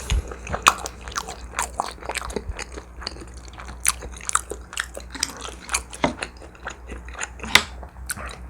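A person chewing food close to the microphone: a steady run of short wet mouth clicks and small crunches at an irregular pace.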